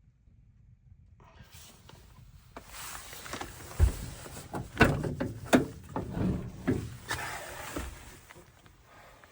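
Handling noises: rustling and shuffling, with a handful of sharp knocks and clacks in the middle, the loudest about five seconds in.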